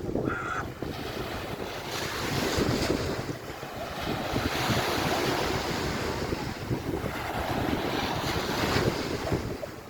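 Sea waves washing on a beach, swelling and falling every few seconds, with wind buffeting the microphone.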